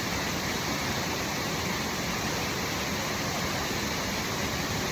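Waterfall rushing: falling water makes a steady, even noise with no let-up.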